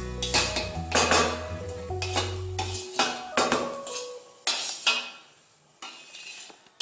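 Metal spatula scraping and knocking against a steel kadai as fried masala is scraped out of it, a quick series of scrapes and taps that thins out and goes quiet near the end.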